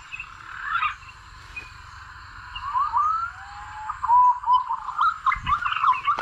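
Birds calling: short whistled chirps and rising and falling glides. They are sparse at first, then come thick and fast from about three seconds in.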